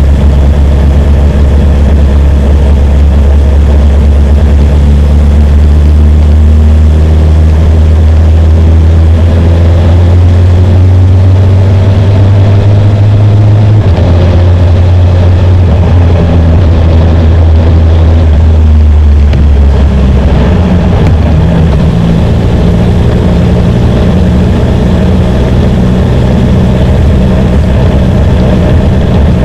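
BMW S1000R's inline-four engine running at low revs, a steady low drone. Its pitch rises slowly in the first half, and the note shifts twice, about halfway through and again about two-thirds of the way through.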